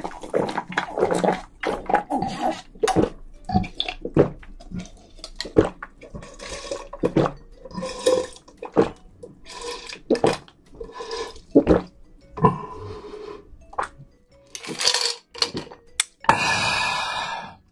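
Close-up wet eating sounds of shrimp being chewed: irregular crunches, clicks and smacks, with a longer, steadier wet sound near the end.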